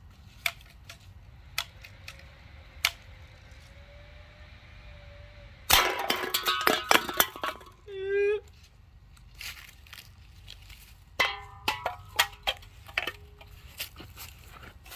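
Empty aluminium soda cans crashing down and clattering, knocked over as bowling pins, with ringing clinks and rattles. A few sharp clicks come first, and a second run of clinking cans follows several seconds after the crash.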